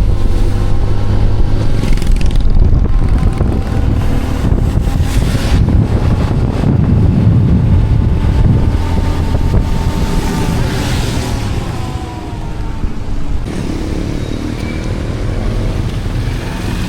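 Motorcycle engine running while riding, with wind buffeting the microphone; the engine note rises and falls with speed.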